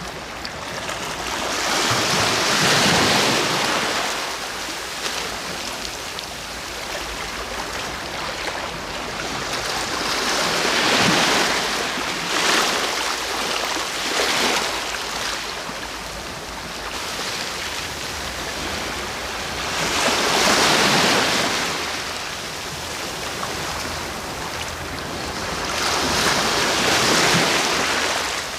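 Sea waves breaking on the shore: a steady wash of surf with four larger waves that swell and crash, each surge lasting a couple of seconds before falling back.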